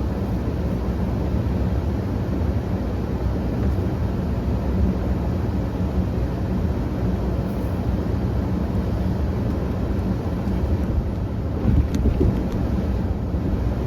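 Engine of a snow-pushing machine running steadily as it pushes snow back, a low rumble. A few brief knocks come near the end.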